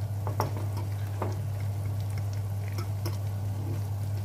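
Rice-and-egg patty frying in shallow oil in a nonstick pan: scattered sizzling crackles and pops, with a couple of brief scrapes of a fork against the pan about half a second and a second in, over a steady low hum.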